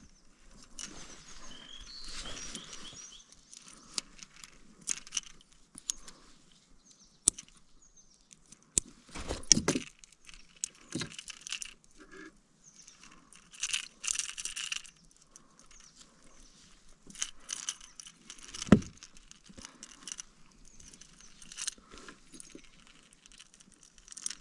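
Handling of fishing gear on a kayak: intermittent metallic jingling and rattling, like lure hooks and split rings, mixed with rustling. Two louder, deeper knocks come about nine and nineteen seconds in.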